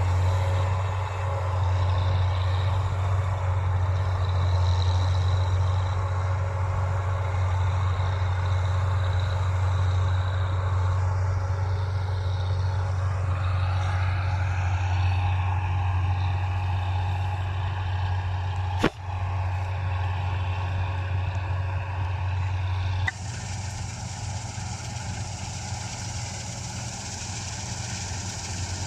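Combine harvester's engine running steadily with a deep, constant hum. There is one sharp click about two-thirds of the way through. Near the end the sound changes abruptly, becoming quieter with more hiss.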